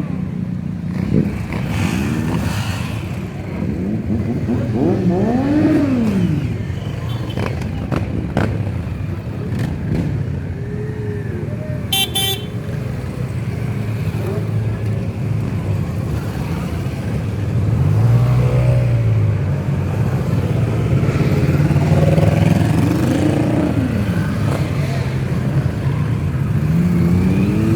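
Motorcycle engines running, revved up and back down several times, with a brief horn toot about twelve seconds in.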